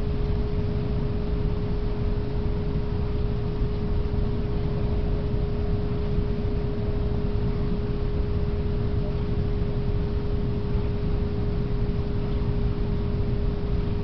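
Tokaido Shinkansen Kodama train running at speed, heard from inside the carriage: a steady low rumble with a single-pitched hum held over it.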